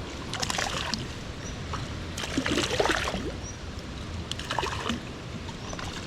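Water splashing in three short bursts, the middle one the loudest, over the steady rush of stream water: a fish hooked in the back thrashing at the surface while it is played.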